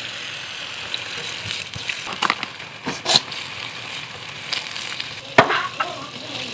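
A stir-fry sizzling steadily in a pan, with a spatula scraping and knocking against the pan a few times; the loudest knock comes near the end.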